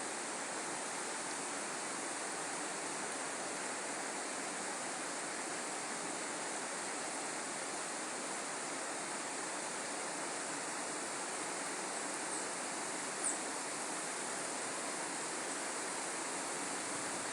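Steady rushing of flowing water, like a stream running over stones, with a single brief high chirp about thirteen seconds in.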